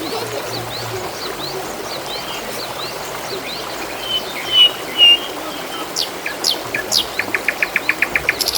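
Water trickling steadily while small birds call over it. There is a string of short rising chirps, then two loud whistled notes about halfway through, and a fast run of ticking notes near the end.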